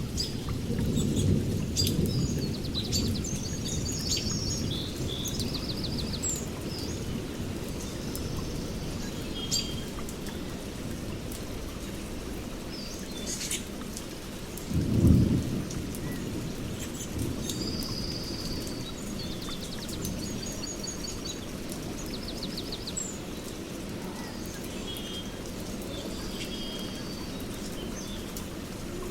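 Rainforest thunderstorm: steady rain with low rolling thunder, swelling in the first few seconds, and a sharp, loud clap of thunder about halfway through. Birds chirp and trill repeatedly over the rain.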